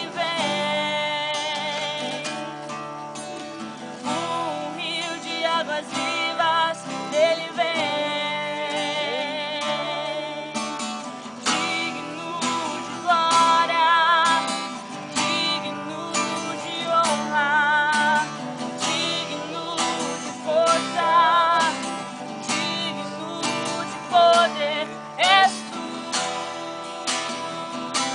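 Acoustic guitar strummed and picked while a voice sings a melody with wavering, vibrato-laden held notes.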